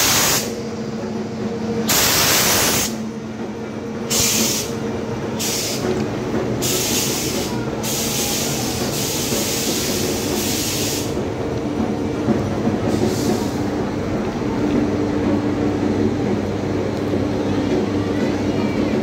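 Train with a steady low hum, broken by repeated short bursts of hiss during the first eleven seconds and once more around thirteen seconds.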